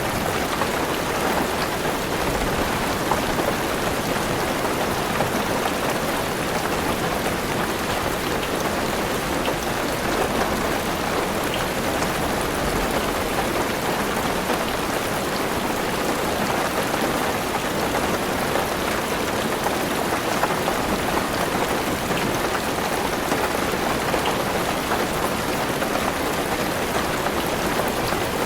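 Heavy rain falling steadily on a car roof, heard from inside the car.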